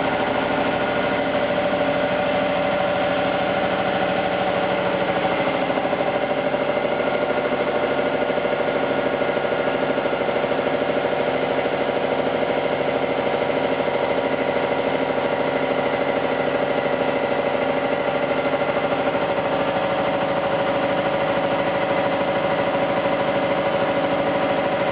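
Steady machinery running: an even mechanical hum with several steady tones and a fast, fine pulsing that does not change.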